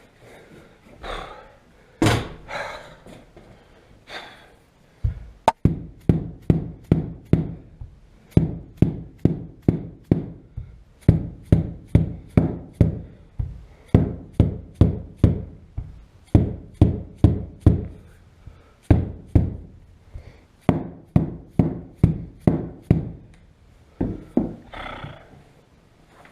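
Repeated dull knocking, like a mallet tapping: a few scattered knocks, then a long series of sharp strikes at about two to three a second, in runs of several blows with short pauses between.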